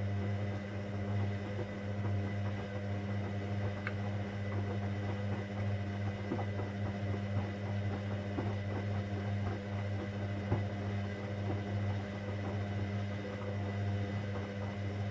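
Hoover Dynamic Next washing machine tumbling its load during a 60 °C cotton wash: a steady motor hum with many small clicks and rattles from the turning drum, cutting off abruptly near the end as the drum stops.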